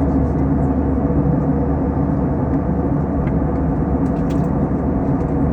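Steady cabin noise of an Airbus A321 airliner in flight, a constant rumble of engines and airflow with a low hum.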